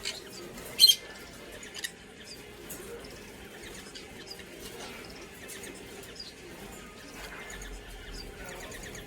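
Green-cheeked conure (pineapple colour form) giving short chirps. One sharp, loud chirp comes about a second in and a softer one a second later, with faint little chirps after.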